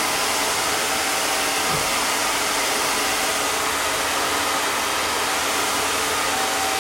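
Hair dryer blowing steadily, drying a wig's lace laid down under an elastic band.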